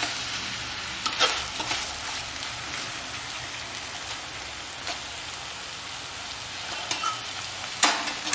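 Shredded chicken sizzling in masala in a metal kadhai while a spatula stirs it, scraping and clacking against the pan a few times, loudest near the end.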